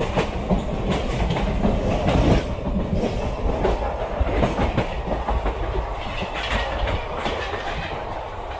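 Passenger train coach running at speed, heard at an open coach window: wheels clattering over rail joints against a steady low rumble. The rumble eases a little near the end.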